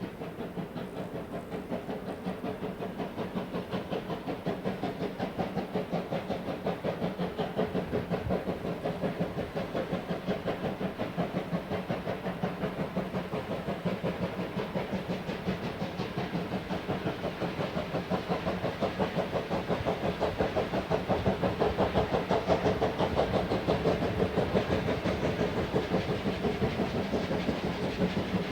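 Steam locomotive working uphill with a train, its exhaust beating in a quick, even rhythm with steam hiss, growing steadily louder as it approaches.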